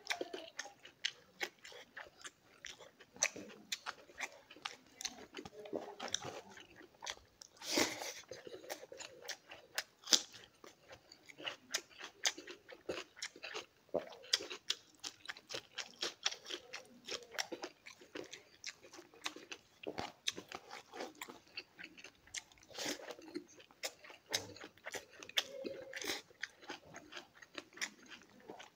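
Close-up mouth sounds of a person chewing and biting a mouthful of river stone fish curry with rice: a steady run of small irregular wet clicks and smacks, with one louder smack about eight seconds in.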